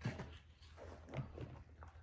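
A knock as a small metal toy-truck part is picked up off the workbench. Then irregular wet rubbing and soft thuds as it is scrubbed by hand in a tub of soapy foam.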